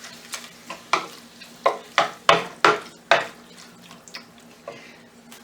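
Raw chicken going into a hot pan of frying onion-tomato masala, with sizzling and a run of sharp clatters of a spoon against the pan, about every half second in the middle. A faint steady hum runs underneath.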